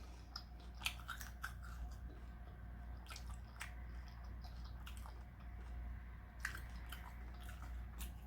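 A person chewing a mouthful of taco, with faint scattered mouth clicks.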